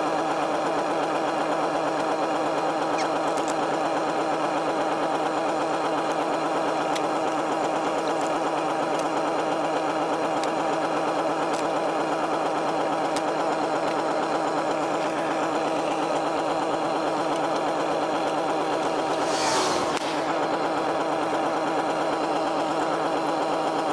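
A motor running steadily at constant speed, an even hum with a fixed pitch. About twenty seconds in there is a short rushing noise.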